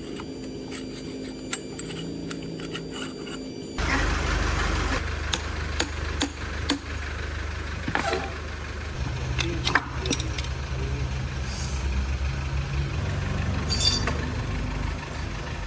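Mechanical workshop sounds: a steady low hum with light regular ticks, then an abrupt change about four seconds in to a louder low rumble with scattered sharp metallic knocks.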